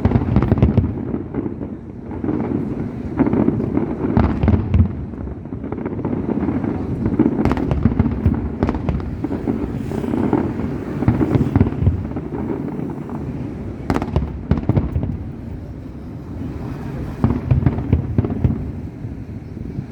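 Fireworks display going off without a break: a continuous deep rumble of shell bursts, with many sharp bangs and crackles on top that come in clusters.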